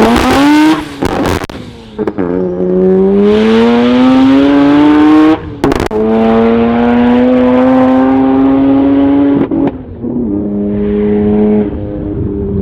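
Turbocharged Mazda 13B-REW rotary engine in a VW Beetle accelerating hard, its pitch climbing through each gear and dropping back at the shifts, with a sharp crack at each change. Near the end it settles to a steadier, lower note.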